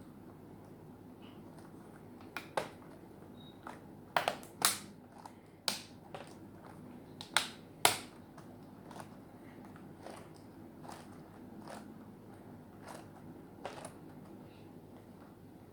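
Sharp plastic clicks and snaps as a laptop keyboard is pressed and seated into a Dell Precision M4700. The loudest clicks come in a cluster in the first half, then fainter ones follow about once a second.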